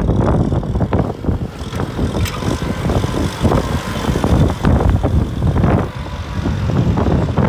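Kubota M6040 tractor's four-cylinder diesel engine running steadily while plowing, with wind buffeting the microphone in irregular low gusts.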